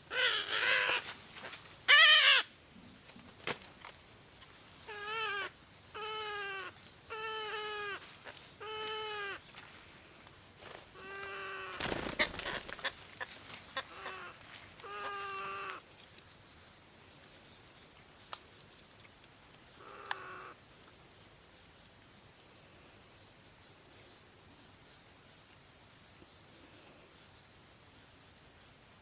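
Parrot chicks calling from their nest. There is a run of harsh calls, each falling in pitch at its end. They come about one a second from about five to sixteen seconds in, with a couple of louder calls in the first two seconds. A faint steady insect drone carries on beneath.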